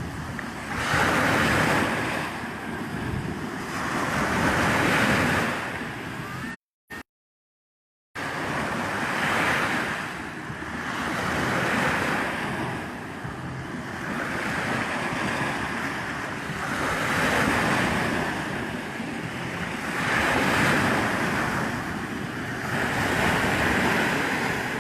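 Sea waves breaking and washing on a shore, each surge swelling and fading every three to four seconds. The sound cuts out completely for about a second and a half about seven seconds in.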